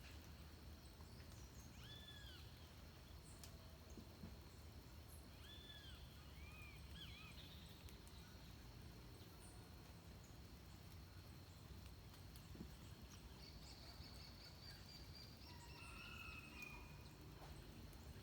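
Faint dawn birdsong: several short arched calls in the first seven seconds, then a high trill and a few more calls near the end, over a steady low background rumble.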